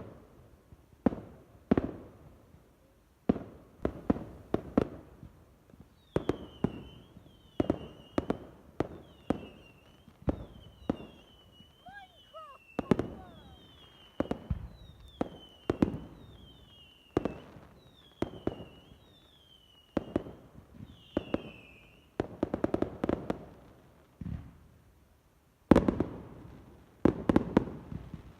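Fireworks display: a long run of sharp bangs from bursting shells, some in quick clusters. Through the middle, a high warbling whistle repeats about once a second.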